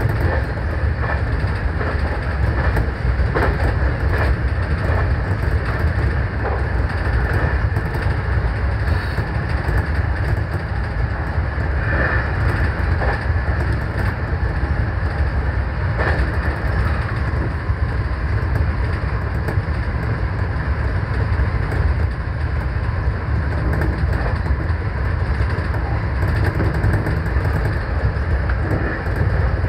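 JR Kyushu 813 series electric train running along the track, heard from inside the front car: a steady low rumble of wheels on rail, broken by scattered clicks from the rail joints. A faint steady whine comes in about two-thirds of the way through.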